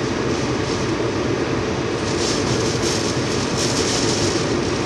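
Steady rumbling rush of a heavy wind and rain storm heard around a car, with a hiss in the upper range that grows stronger about two seconds in.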